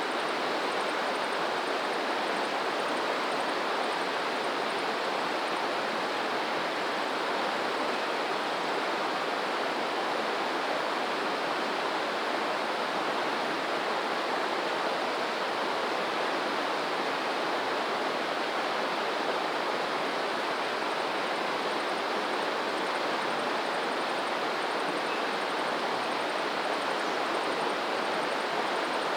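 Steady rush of running water, an even hiss with no swells or breaks.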